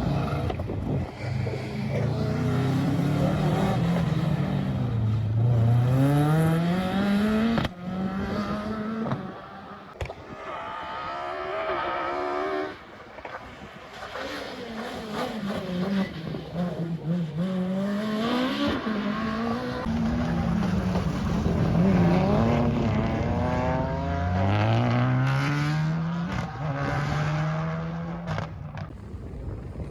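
Rally car engine driven hard, its note climbing steeply through the revs and dropping back at each gearchange or lift, over and over.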